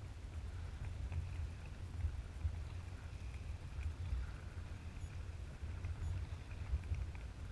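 Kayaking on open water: a low, gusting wind rumble on the microphone, with light water splashes and lapping around the kayak.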